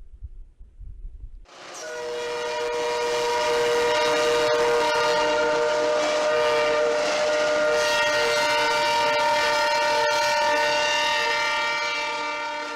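Train air horn sounding one long, steady chord of several notes, starting about a second and a half in and holding, easing off near the end.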